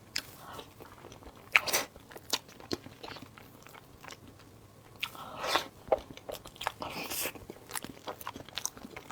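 Close-up eating sounds: irregular crisp bites and crunching chews with wet mouth clicks, the loudest bite about a second and a half in and a busier run of crunching around the middle.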